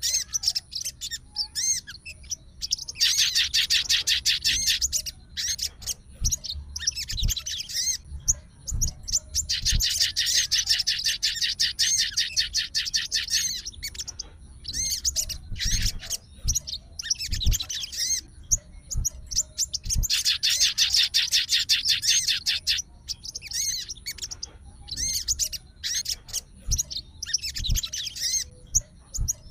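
Sogon bird singing in long, fast trilling chatter phrases of several seconds each, three main bouts with shorter chirps between them. This is a sogon in full, aggressive song, answering another sogon's song.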